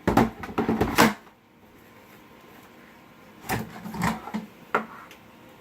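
Plastic parts of a Vacmaster shop vacuum clunking and clicking as they are handled and unlatched. A burst of knocks comes in the first second, then another run of clicks and knocks after a pause.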